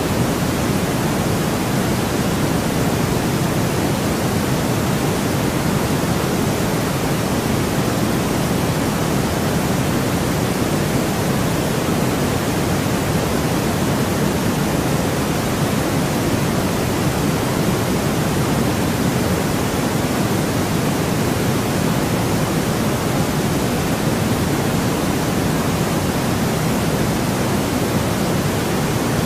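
Steady white noise for sleep: an even, unchanging hiss with no rhythm or breaks, fuller and stronger in the low range than in the high.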